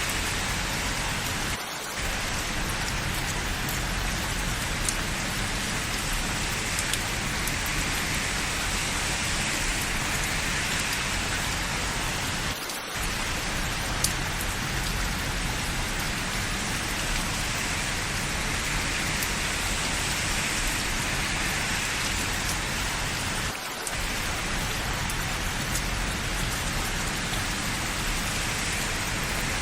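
Steady rain falling, an even hiss with a few sharper drop ticks. It dips briefly three times, about every eleven seconds.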